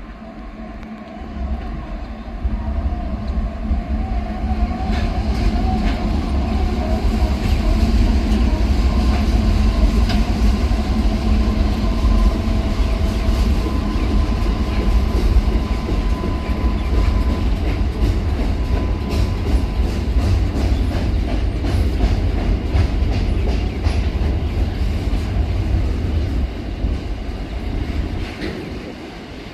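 Diesel-electric freight train passing close by on a rail bridge: a heavy rumble builds in the first couple of seconds as the locomotives' diesel engines go past. It settles into a steady roll of wagons with wheels clicking over the rail joints and a thin whine, then eases a little near the end.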